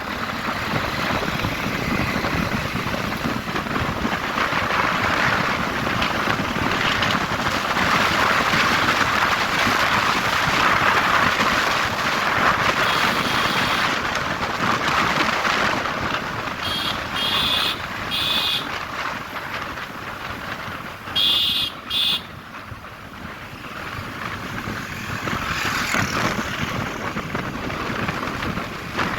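Road and traffic noise with wind buffeting the microphone while riding. Several short, high-pitched beeps come in clusters in the second half.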